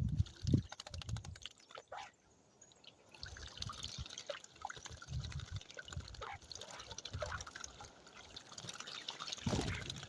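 Birds splashing in water: many small irregular splashes and drips, with a few dull thumps, the loudest about half a second in.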